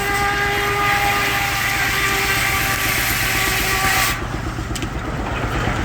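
Circular head saw of a steam-driven Frick sawmill cutting through a log with a ringing whine and hiss, which cuts off suddenly about four seconds in as the saw leaves the cut. Under it, the steam engine driving the mill keeps a low, steady pulsing run.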